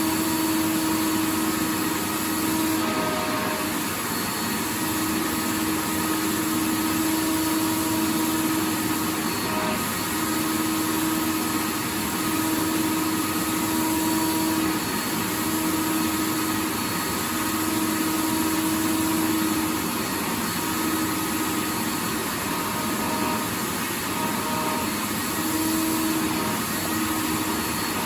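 Vacuum cleaner motor running steadily: a continuous airy rush with a humming tone that fades out and returns every few seconds.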